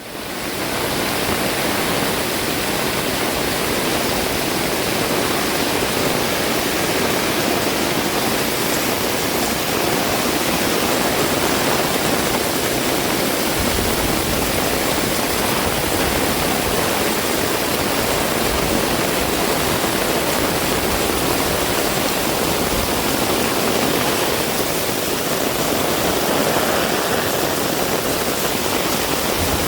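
Heavy rain falling, a loud, steady, dense hiss that fades in over the first second.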